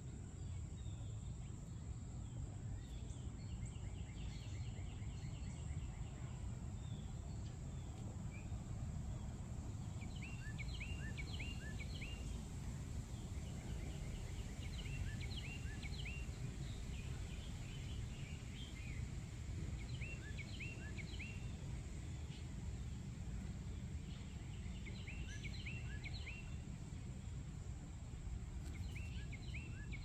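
Outdoor ambience: a steady low rumble, with a bird repeatedly calling in short bursts of quick chirped notes. A constant high-pitched insect drone runs underneath.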